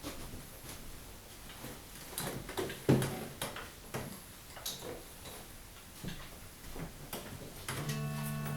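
Scattered small clicks and knocks at irregular spacing, with one heavier knock about three seconds in. A steady held musical chord comes in near the end.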